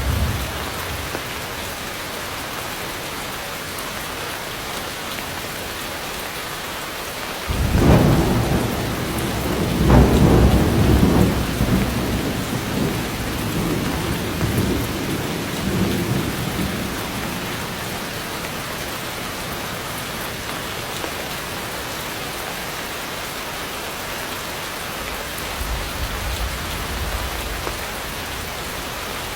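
Heavy rain falling steadily, with a roll of thunder breaking about eight seconds in that rumbles on for some ten seconds before fading, and a fainter rumble of thunder near the end.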